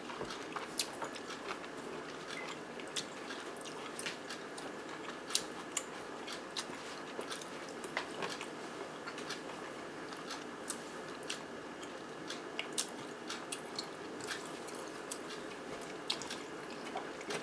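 Close-up chewing and wet mouth clicks of someone eating a soft zucchini boat with ground turkey and melted cheese. Many short smacks are scattered irregularly over a steady background hiss.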